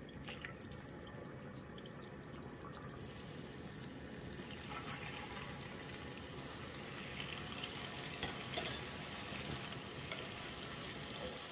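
Battered vegan ham frying in hot oil in a pan: a soft sizzle that grows louder and denser from about three seconds in, with scattered small pops and crackles as the batter bubbles.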